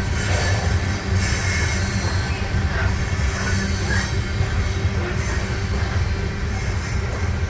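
Union Pacific freight train cars rolling past: a steady low rumble of wheels on rail, with faint thin wheel squeal above it.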